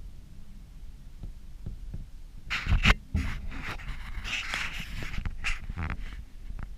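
Fireworks going off: a low rumble, then a sudden loud burst with a deep thump about two and a half seconds in, followed by a few seconds of uneven crackling.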